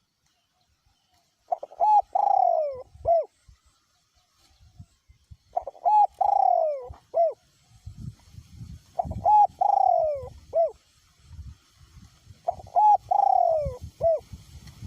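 Male spotted dove cooing its three-part call four times, each phrase a short note, a longer falling note and a short closing note, repeated about every three and a half seconds. A low rumble of wind on the microphone comes and goes underneath.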